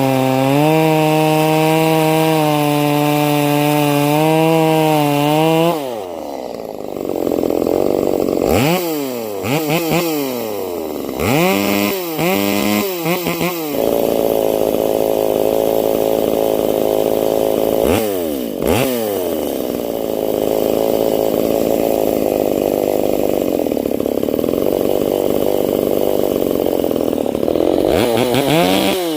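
Ported, muffler-modded Stihl 025 (MS 250) two-stroke chainsaw running at full throttle, held steady under load for about six seconds, then dropping off. It blips through several quick revs and then runs long stretches at full throttle, dropping back near the end.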